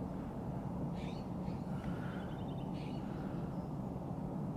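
Birds calling faintly on and off, with a quick run of rapid chirps about two seconds in, over a steady low background rumble.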